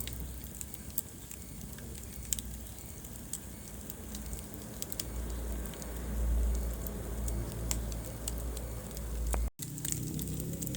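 Wood fire burning in a fireplace: scattered sharp crackles and pops over a steady low rumble of flames. The sound cuts out for an instant near the end.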